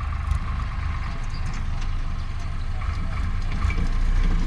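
Tractor engine running with a low, rapid chugging, slowly getting louder.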